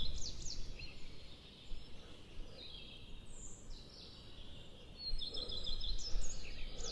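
Wild songbirds singing: short phrases of high, quickly repeated notes at the start, around three seconds in, and again near the end, over a steady low rumble.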